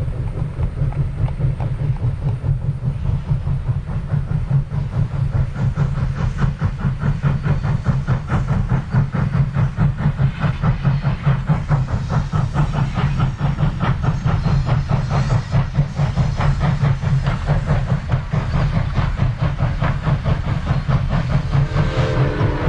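Southern Railway No. 4501, a 2-8-2 Mikado steam locomotive, running with its train, its exhaust chuffing in a rapid, even beat over the rumble and hiss of the train.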